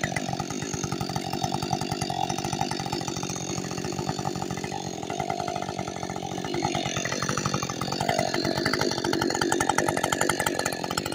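Ported Husqvarna two-stroke chainsaw running at a fairly steady engine note, growing a little louder in the second half.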